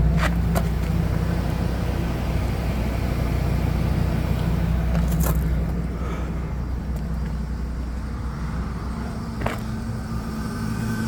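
Engine-driven machinery of a Ford F550 service truck running with a steady low rumble; it eases off a little about six seconds in. A few sharp clicks are heard over it.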